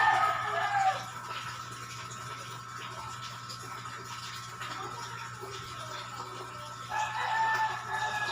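A rooster crowing, the call falling off and ending about a second in, over a steady faint hum. Another long pitched call starts near the end.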